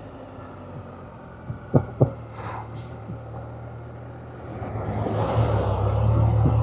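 Can-Am Spyder engine running steadily at road speed, with wind and road noise. Two sharp clicks come about two seconds in, and the engine and wind swell louder over the last couple of seconds as it speeds up.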